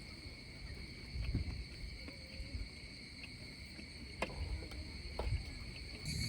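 Steady, high insect chorus trilling without a break, with a few soft low thumps and one sharp click a little over four seconds in.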